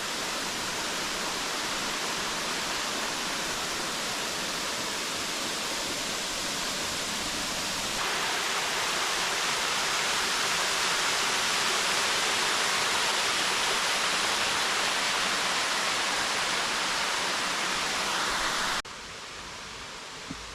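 Waterfall rushing, a steady dense hiss of falling water. It gets louder about eight seconds in and drops off sharply near the end.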